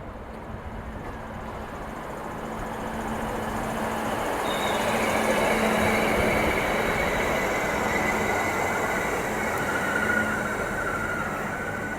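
Hunter-class diesel railcar pulling into a platform: a steady engine drone under rolling train noise that swells, with high-pitched squealing joining in about four seconds in as it slows.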